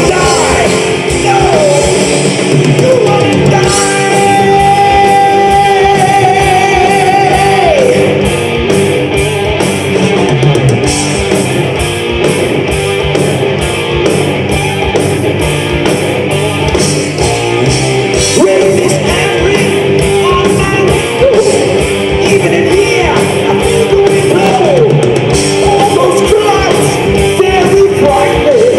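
Live rock band playing with electric guitars, drums and a singer, one note held for about four seconds near the start.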